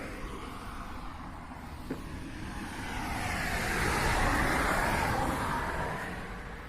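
A motor vehicle passing by: its noise builds from about three seconds in, is loudest a second or two later, then fades away.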